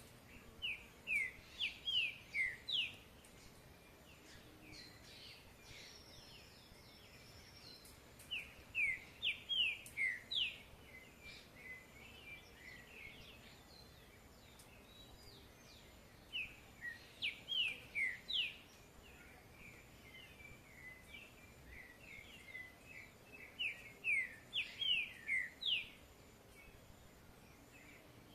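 A songbird singing in four phrases, each a quick run of short, clear down-slurred whistled notes, spaced about seven seconds apart. Softer chirps and faint outdoor background sound fill the gaps.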